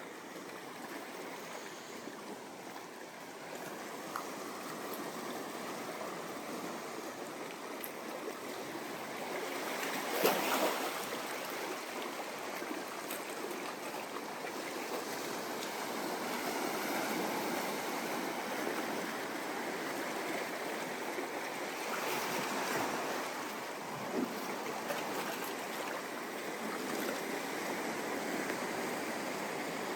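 Ocean surf washing onto a sand beach: a steady rushing wash that swells and recedes, with a louder breaking wave about a third of the way in and another about three-quarters of the way through.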